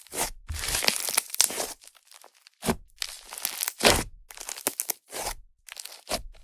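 Clay-butter slime (Yoda clay) being squeezed and stretched by hand in repeated bursts, its trapped air crackling and sizzling with a fizzy sound.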